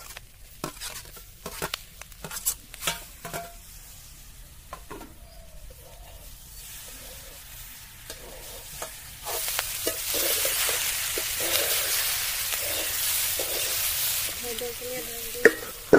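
Metal spatula scraping and tapping against a steel plate and an iron kadhai as chopped tomatoes go in among boiled-and-fried river snail meat. About nine seconds in, sizzling in the hot oil grows loud and steady under the stirring.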